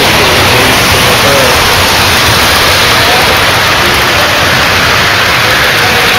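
Loud, steady rushing noise of model trains running on three-rail track, with faint voices of a crowd behind it.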